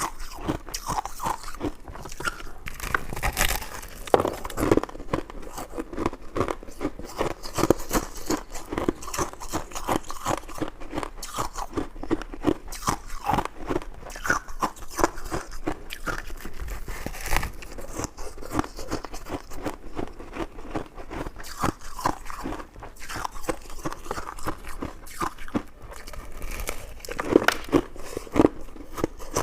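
Close-miked eating: continuous chewing and biting, with irregular wet clicks and crunches.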